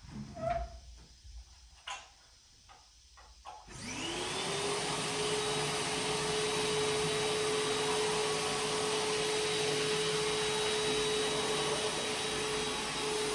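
A few light knocks and clicks, then an electric vacuum cleaner is switched on a little under four seconds in: its motor whine rises quickly and settles into a steady, loud run.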